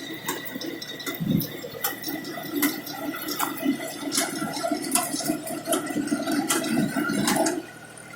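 Tractor-mounted reaper running: a steady mechanical whine with a dense clatter of clicks and rattles, dropping off sharply shortly before the end.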